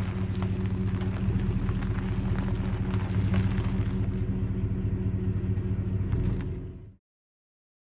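Truck engine and road noise heard from inside the cab while driving: a steady low hum with small rattles and clicks. It cuts off abruptly near the end.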